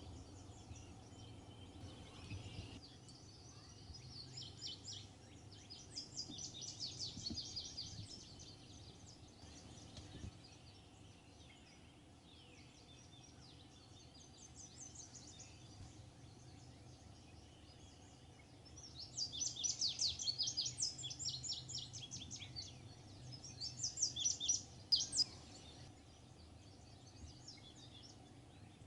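Songbirds singing high, rapid trilled phrases in bursts over a low, steady outdoor rumble. The loudest bursts come about two-thirds of the way through.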